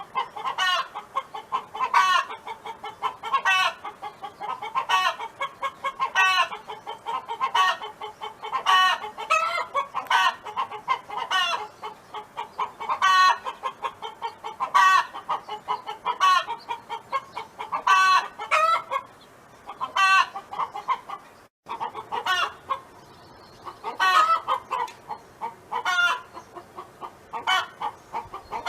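Domestic hen clucking in a long repeated series, one short call about every second or so, each call sharp-edged and bending in pitch. There is a brief break about three-quarters of the way through, then the clucking resumes.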